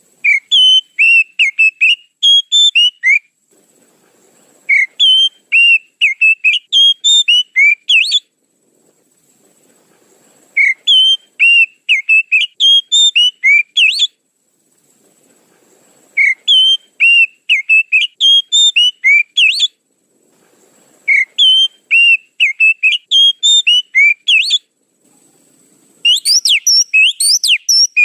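Oriental magpie-robin (kacer) song played as a bird-trapping lure: a phrase of clear whistled notes, about three seconds long, repeated five times almost identically with short pauses between, then a faster, busier run of rising notes near the end.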